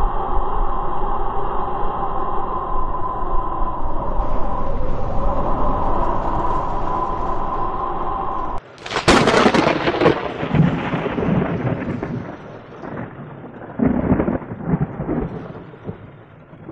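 A steady drone holding several tones, then about halfway through a sudden loud thunderclap that cracks and rumbles away, with another rumble of thunder a few seconds later.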